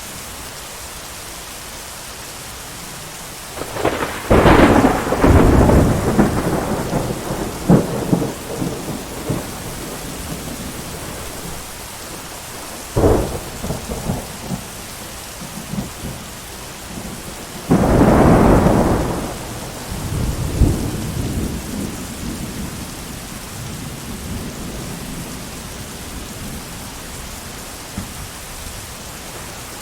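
Steady rain falling, with thunder three times. A loud crash about four seconds in rumbles on for several seconds, a short sharp crack follows near the middle, and another loud crash a few seconds later rolls away over about four seconds.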